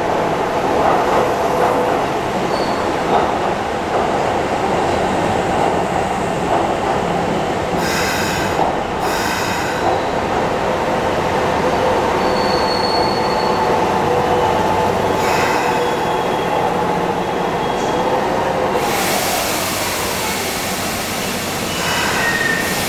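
Keisei 3400 series electric train pulling into the station, its running noise carrying a steady high squeal of the wheels. A hiss comes in near the end.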